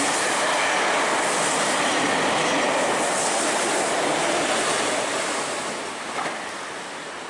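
Meitetsu Panorama Super limited express train passing through the station at speed. Its wheels and rails give a steady, loud rush that fades away after about five seconds.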